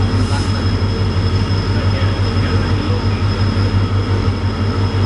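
Passenger train hauled by an EMD WDP4D diesel locomotive, heard from a coach as it runs through a station: a steady low drone of the locomotive with the rumble of the wheels on the rails. A thin, steady high tone sits above it.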